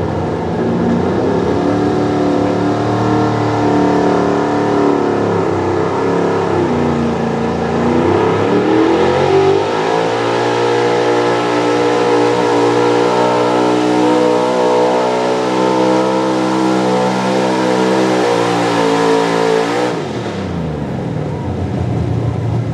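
Pro stock 4x4 diesel pulling truck at full throttle pulling a sled. Its engine pitch dips and then climbs steeply over a few seconds as the truck hooks and gains speed, holds at high revs, and falls off sharply near the end as the throttle is cut and the pull ends.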